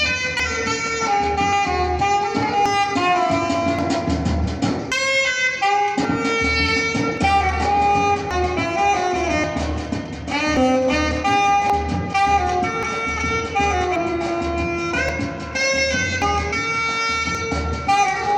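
Instrumental band music: a saxophone plays a melody over a steady drum beat. The drums drop out briefly about five seconds in.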